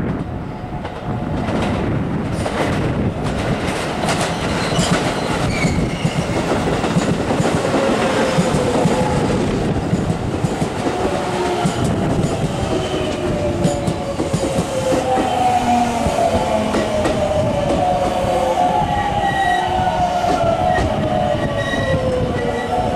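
JR West 207 series electric commuter train running in close by, wheels clattering over rail joints above a steady rumble. In the second half a motor whine of several tones slides down in pitch as the train slows.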